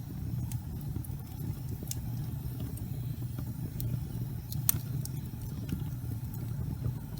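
Fireplace fire burning: a steady low rumble of flame with scattered sharp crackles and pops, the loudest about four and a half seconds in.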